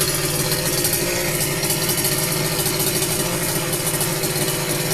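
Freshly rebuilt two-stroke petrol strimmer engine idling steadily while warming up after a cold start.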